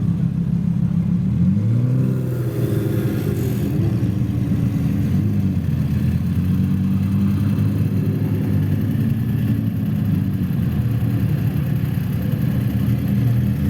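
Lamborghini engines running steadily, with a brief rise and fall in revs about two seconds in.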